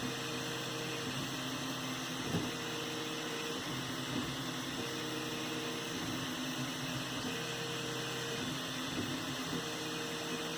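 3D printer running a print: its stepper motors hum in steady tones that switch and shift every second or two as the axes move, over a constant hiss, with one faint click about two seconds in.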